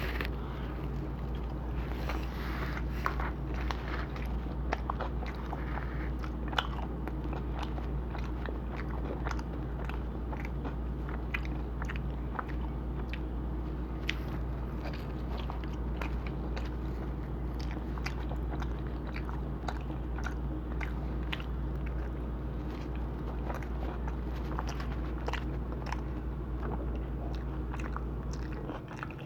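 Close-miked chewing and biting of pizza: many small, sharp crunches scattered throughout, over a steady low hum.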